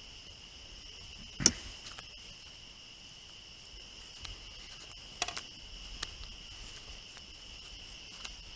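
Steady high-pitched drone of insects chirring, unbroken throughout. A sharp click stands out about a second and a half in, with a few softer clicks around five to six seconds.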